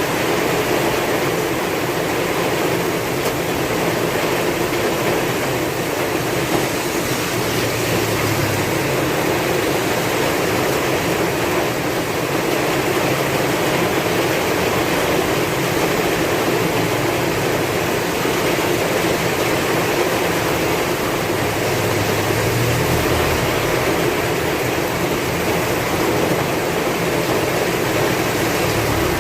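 Heavy rain falling steadily with strong wind, a dense even hiss. A low rumble swells briefly twice, about eight seconds in and again a little past twenty seconds.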